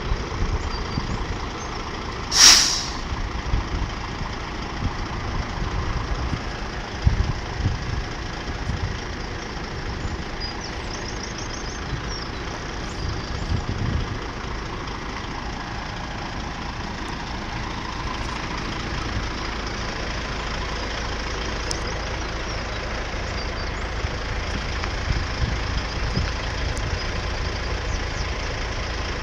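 Heavy road vehicles idling with a steady low rumble, and one short, loud air-brake hiss about two and a half seconds in.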